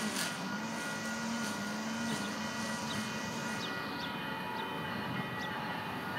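Freight train cars rolling past on the rails, with steady high wheel squeal ringing over a continuous rumble and a few faint ticks.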